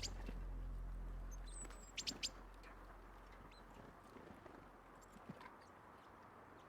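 Small birds chirping: a short high chirp at the start and a quick cluster of two or three about two seconds in, over faint outdoor background, as soft music fades out.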